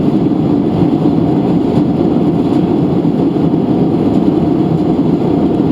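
Steady engine and airflow noise inside the cabin of a Boeing 737-800 in flight: a loud, even, low rush.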